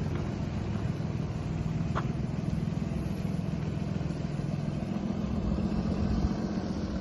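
Cummins 6.7 L diesel engine of a Freightliner M2 106 water truck running steadily, with a brief sharp squeak about two seconds in.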